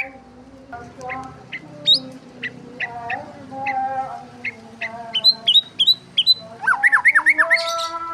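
Birds chirping and squawking, a string of short sharp chirps with a quick run of rising chirps near the end.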